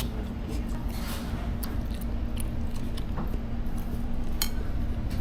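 A person eating: chewing with scattered light clicks of cutlery, over a steady low hum.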